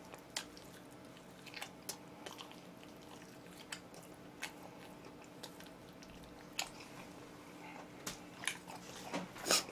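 Close-miked chewing and biting of oven-roasted chicken: scattered soft wet clicks and small crunches of eating, with a louder bite near the end.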